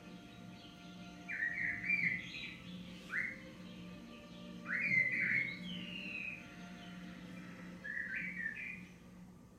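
Birdsong: a songbird singing short, quick chirping phrases that swoop up and down, one every second or two, over a faint steady low hum.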